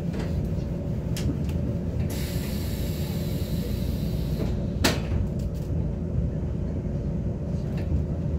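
Inside a Taiwan Railways Tze-Chiang express carriage: the train's steady low rumble with a faint hum, a hiss of air from about two seconds in that lasts around two seconds, and a sharp click near the five-second mark.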